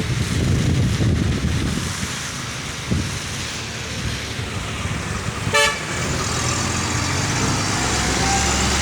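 Steady hiss of rain and road traffic, with wind buffeting the microphone in the first half. A short car horn beep sounds about five and a half seconds in.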